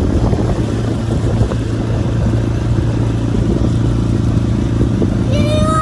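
Small outboard motor running steadily, pushing an inflatable boat, with a dense noisy rush over the low engine hum.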